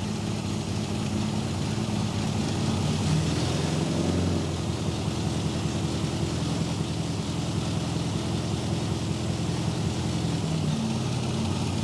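Mini's A-series four-cylinder engine idling with no muffler, a steady even run that has just been brought up from barely running by opening the idle screws. The mixture is running rich.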